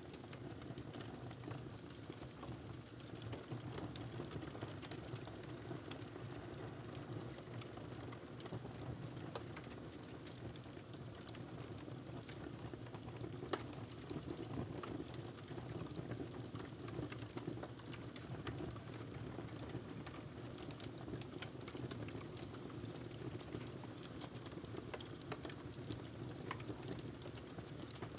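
Wood fire crackling in a fireplace: a steady low rush of flames with scattered small pops and snaps, one sharper pop about halfway through.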